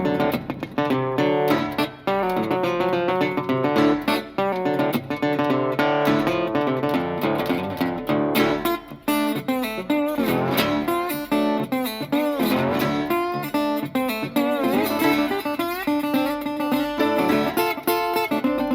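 Blues music: an instrumental break of plucked acoustic guitar between sung verses, with some bent notes.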